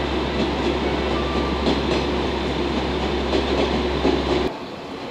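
JR West 115 series electric train rolling past: a steady rumble of wheels on rail with occasional clicks, which cuts off abruptly near the end.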